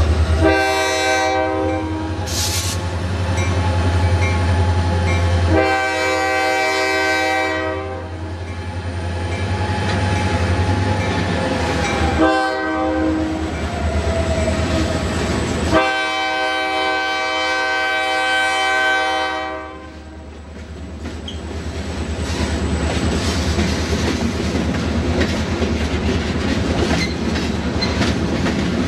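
Paducah & Louisville Railway diesel freight locomotives passing with a low engine rumble. They sound the horn in the grade-crossing pattern: long, long, short, long, the last blast held longest. After the horn, the freight cars roll by with a steady clickety-clack of wheels over rail joints.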